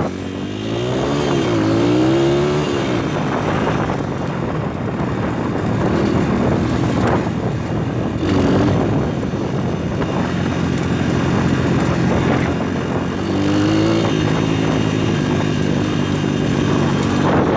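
Engine of a PitPro 140cc pit bike, a small single-cylinder four-stroke, running under way with its revs rising and falling as it is ridden. The revs climb about a second in and again near the end.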